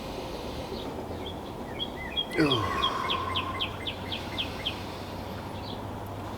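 Small birds chirping over a steady background hiss: a few short high chirps, then a quick run of about eight down-slurred notes, about five a second.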